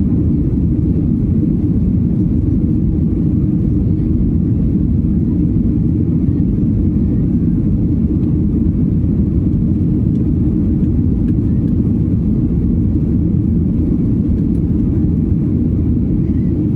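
Steady low rumble of a Boeing 737-900ER's CFM56-7B engines and the airflow, heard from inside the passenger cabin.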